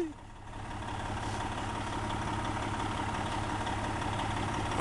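Freightliner Columbia semi truck's diesel engine running steadily at low speed with an even hum, not revving.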